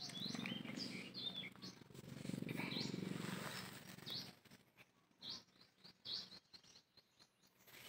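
Small birds chirping in short, scattered high calls. For the first four seconds or so, a low rustling of handling and movement runs underneath.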